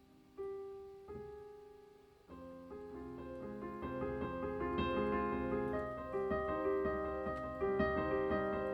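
Piano music: a few single notes struck and left to ring away, then from about two seconds in a flowing run of many notes that grows louder.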